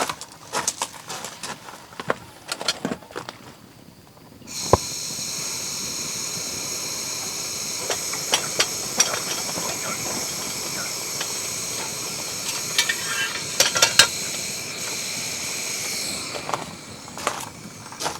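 A steady hiss that starts suddenly about four and a half seconds in and stops suddenly near the end, with light clicks and taps over it; before it, rustling and clicks of handling.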